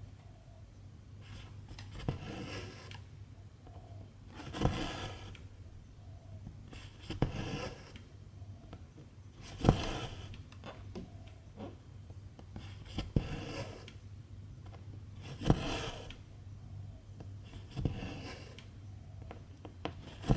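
Hand cross-stitching: the needle pokes through the stitching fabric with a sharp click, and the silk thread is drawn through with a short rasping swish. This repeats about every two and a half seconds.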